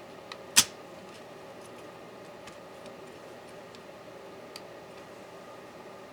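A single sharp click about half a second in, with a smaller click just before it, then a few faint light ticks over a steady low hum. These are small tools and laptop parts being handled on a work surface during disassembly.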